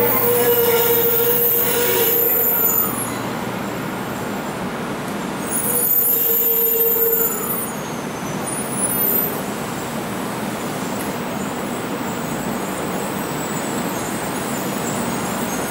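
A 300 series Shinkansen train rolling slowly into a station platform, a steady rumble and hiss. A held mid-pitched tone rises over it twice: near the start, and again about six seconds in.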